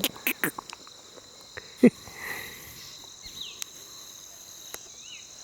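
A steady, high, shrill chorus of insects in two constant tones, the upper one pulsing finely. A few short clicks come right at the start, and a single sharp click, the loudest sound here, comes a little under two seconds in, with a couple of faint short chirps later.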